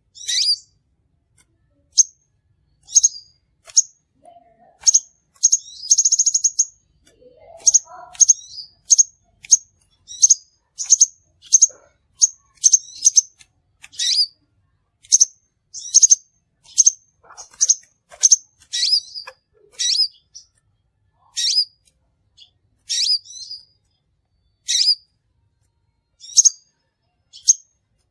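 Crimson sunbird calling: a long series of sharp, high-pitched chirps, about one or two a second, with one longer buzzy trill about six seconds in. This is the kind of call used as a lure recording to draw in the bird.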